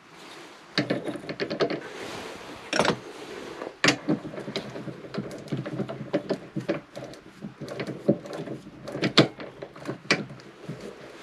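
Irregular knocking and clattering of wood and metal tools at a woodturning lathe, a busy run of sharp knocks that starts suddenly.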